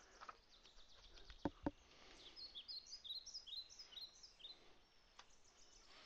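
Near silence with a bird chirping faintly: a quick run of short high chirps in the middle, and two soft clicks about a second and a half in.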